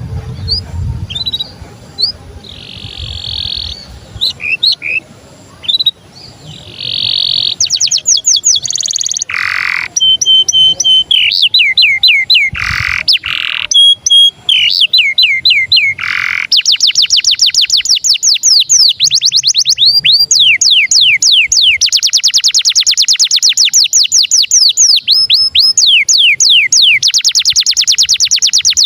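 Domestic canary singing with jalak-style (starling-like) phrasing: quick rolls of rapidly repeated down-slurred notes, with a few harsh rasping notes in the first half. From just past halfway it runs into a long, dense, very fast trill.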